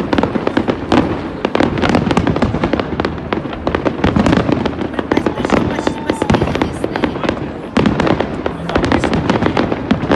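Fireworks display: a dense, continuous barrage of bangs and crackling bursts, with a brief lull about three-quarters of the way through.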